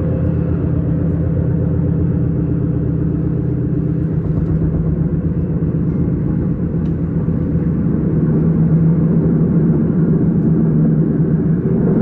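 S-Bahn train running along the line: a steady rolling rumble with a low hum that grows a little louder in the second half.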